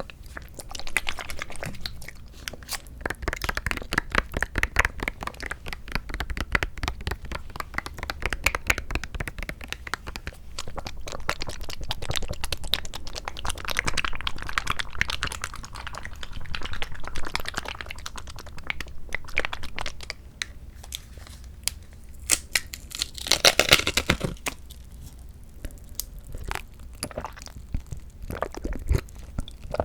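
Close-miked eating of a Sunkist mandarin fruit cup: chewing of the mandarin segments with a dense run of small mouth clicks, and a louder cluster of sounds about two-thirds of the way through.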